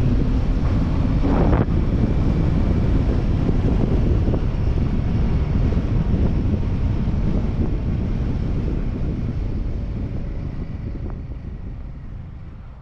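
Wind rushing over the microphone of a moving motorcycle, a heavy low rumble under the road noise, fading out over the last few seconds.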